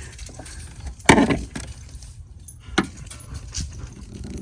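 Small steel pry bar clanking against the starter terminals of a diesel truck: one sharp metallic clank about a second in, then a lighter click near three seconds. The starter does not engage and the engine does not crank.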